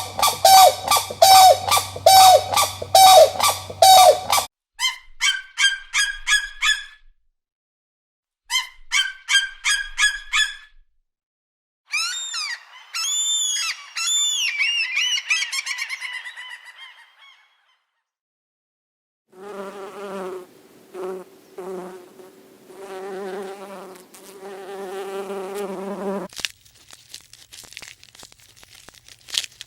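A run of separate animal calls: rapid repeated honking calls for the first few seconds, then two bursts of quick high chirps and a string of high rising-and-falling calls, then several seconds of a buzzing, insect-like drone broken by short gaps.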